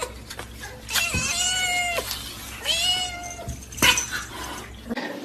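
A cat meowing in long, drawn-out calls, two of them about a second each, with a sharp click or knock between them.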